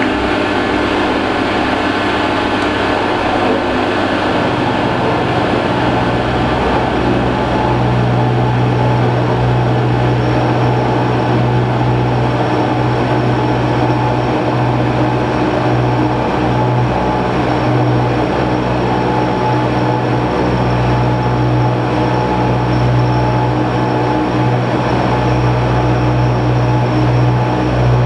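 A metalworking machine tool running steadily under an electric motor, with a strong low hum that builds about four seconds in and holds.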